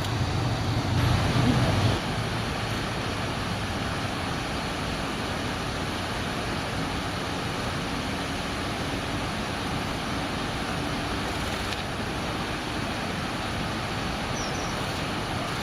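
Steady rushing outdoor background noise, heavier and lower for the first two seconds, with a few faint high chirps near the end.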